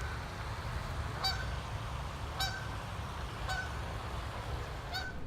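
A goose honking four times, about once every second, over a steady low rumble.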